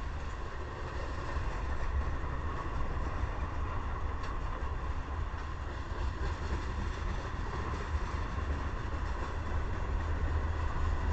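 Freight cars of a CSX train (tank cars, boxcars and covered hoppers) rolling past: a steady low rumble of steel wheels on the rails, with a faint steady whine above it.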